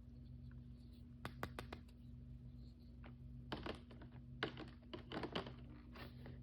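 Faint, scattered clicks and light taps of small plastic toy pieces and packaging being handled while unboxing blind bags. A few clicks come about a second in and a denser run about halfway through, over a faint steady low hum.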